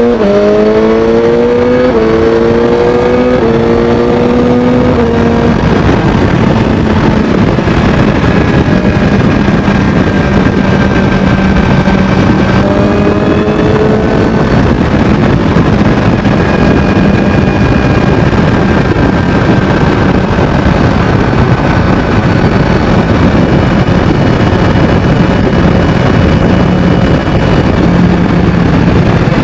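BMW S1000XR's inline-four through a Termignoni exhaust, accelerating hard with about three quick upshifts in the first five seconds, then holding a steady engine note under a loud even rush of noise.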